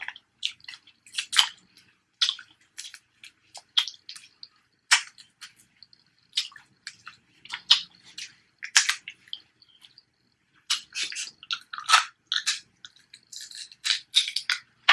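Close-miked eating sounds: wet chewing, lip smacking and sucking, heard as irregular sharp clicks and smacks, some in quick clusters, from a mouthful of sauced snow crab.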